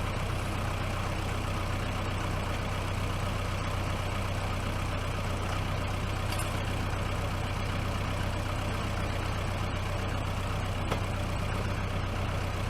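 Tractor engine running steadily at idle, a constant low hum with no change in speed.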